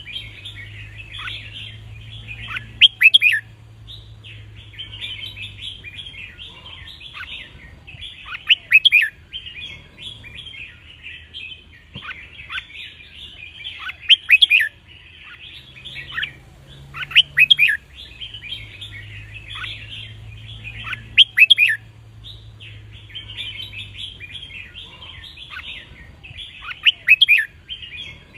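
Red-whiskered bulbuls singing: loud, short whistled song phrases every few seconds over continuous chattering and twittering. A faint low hum runs underneath.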